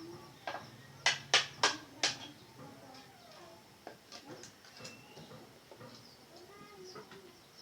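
Four quick, sharp hammer blows about a second in, each with a short ring, then faint high bird chirps.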